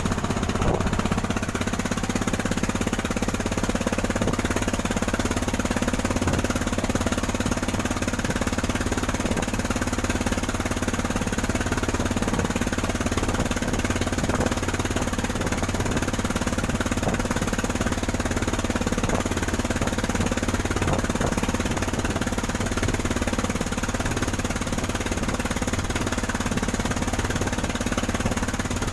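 Engine of a wooden cargo boat running steadily while under way, with no change in speed.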